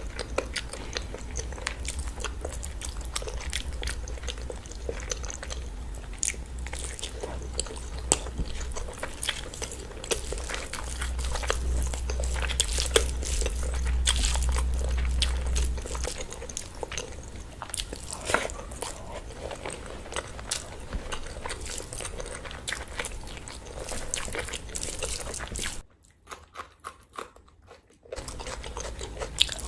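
Close-miked eating sounds: wet chewing and smacking of mouthfuls of rice and curry, with the squelch of fingers mixing rice into curry, full of small clicks and crackles. The sound drops out for about two seconds near the end.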